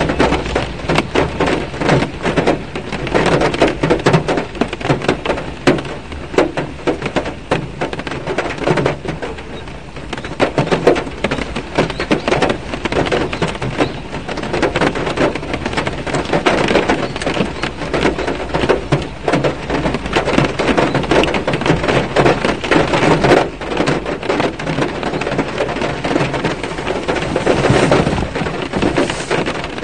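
Rain drumming on a car's roof and windshield, heard from inside the car: a dense, uneven patter of drops that swells and eases.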